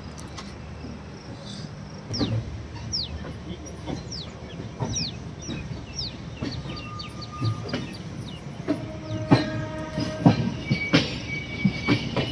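Indian Railways passenger train running, heard from beside its coaches: a steady rumble with short high wheel squeals repeating every second or so. From about nine seconds in, louder clicks and knocks join in as the wheels clatter over rail joints and points.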